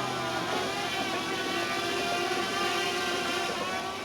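A boat's outboard motor running steadily, its note wavering slightly, then fading away near the end.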